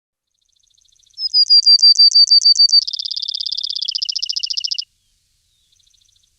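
A small songbird singing one trilled song, starting about a second in: a run of quick, sharp, high notes at about ten a second, then a faster trill that steps down in pitch before stopping suddenly.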